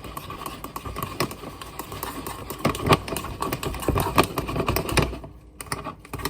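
A utensil stirring thick cake batter in a bowl, with quick irregular clicks and knocks against the bowl that are busiest in the middle.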